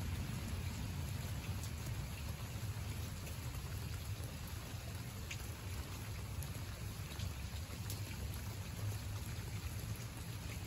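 Steady rain falling on garden foliage and mulch, with scattered single drops ticking. A low rumble runs underneath.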